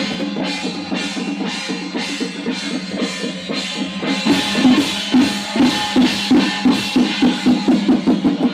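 Chinese temple ceremonial percussion: a drum beating steadily with other percussion over it. About halfway through, the drum strokes come out clearly at about three a second.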